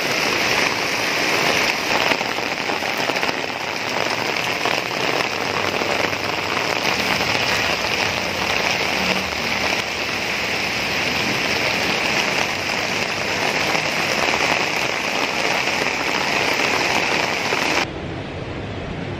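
Heavy monsoon rain pouring down, a dense steady hiss of rain on hard surfaces, which cuts off suddenly near the end.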